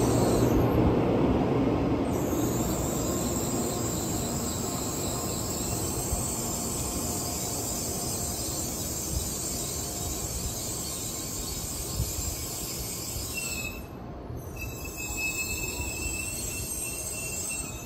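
N700-series Shinkansen train pulling slowly away past the platform end, its running noise fading steadily as the last car goes by. A thin high whine comes in near the end.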